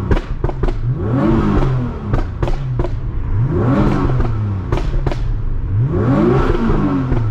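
Tuned Nissan GT-R R35 twin-turbo V6 revved in neutral about four times, each rev rising and falling. Sharp pops and bangs crack from the exhaust as the revs drop, from a pop-and-bang map.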